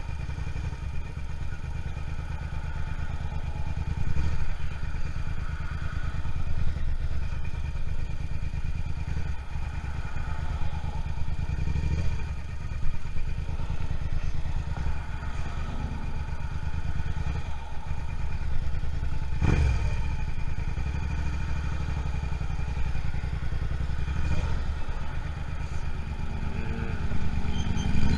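Suzuki SV650 motorcycle's 645 cc V-twin engine running steadily, heard from the rider's seat, with one sharp knock about two-thirds of the way through.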